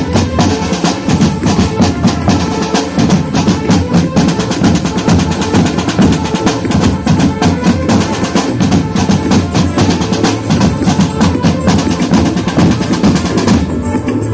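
Marching band drum line playing a fast, dense rhythm on snare and bass drums. The sharp, crisp strikes drop away near the end while lower sound carries on.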